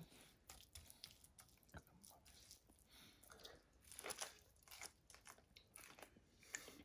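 Faint crunching and chewing as a breaded, deep-fried spare rib is bitten into and eaten, with scattered soft clicks and crackles; the loudest bites come about four seconds in.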